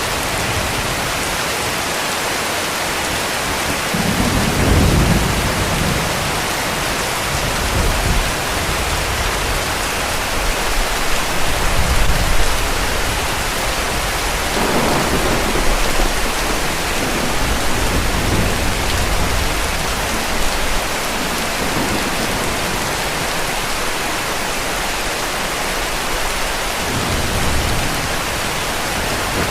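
Steady heavy rain hissing, with low rumbles of distant thunder swelling several times: about four seconds in, around ten to thirteen seconds, around fifteen seconds and again near the end.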